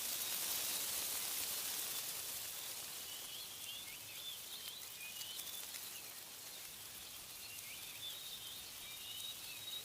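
Wind blowing through trees, swelling for the first couple of seconds and then easing. Birds chirp repeatedly in short, high calls from about three seconds in.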